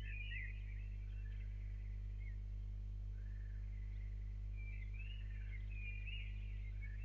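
Small birds singing in short chirping, warbling phrases over a steady low hum.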